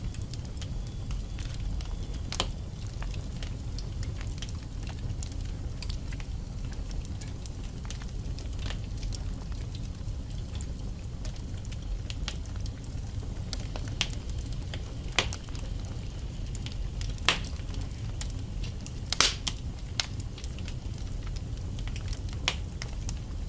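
Wood fire burning in a fireplace: a steady low rumble of flames with irregular sharp crackles and pops from the logs, a few louder snaps scattered through.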